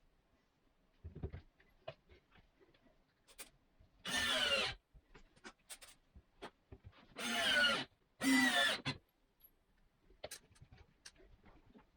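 Cordless drill/driver run in three short bursts, its pitch wavering under load, with small clicks and knocks of handling hardware and wood in between.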